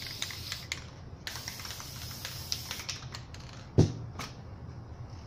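Small clicks and taps from spray-paint work on a painting, over a high hiss that stops about three seconds in. One louder thump comes just before the four-second mark.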